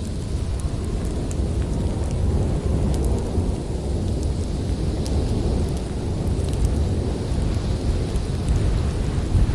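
Snowstorm wind blowing in a deep, steady rush, with scattered small crackles from a wood fire.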